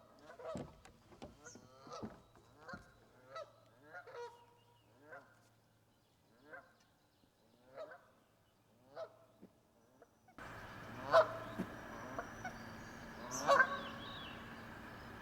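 Canada geese honking: a run of calls that spaces out and thins over several seconds. About ten seconds in, the background noise rises suddenly and two louder honks follow.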